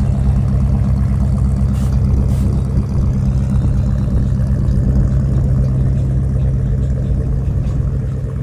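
A car engine idling steadily, a loud, even low-pitched sound with little change, and two faint clicks about two seconds in.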